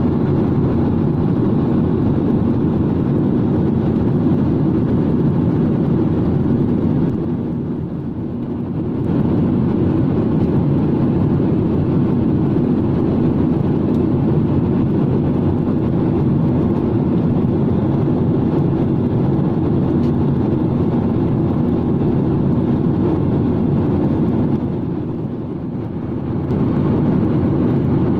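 Steady low rumble of an airliner cabin in flight, engine and airflow noise, dipping briefly in level twice.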